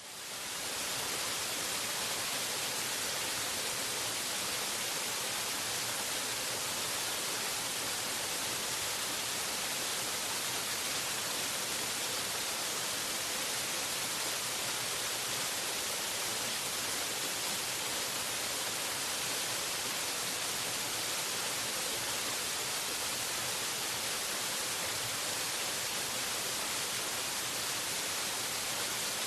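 Waterfall: a steady, even rush of falling water, mostly hiss, fading in over the first second.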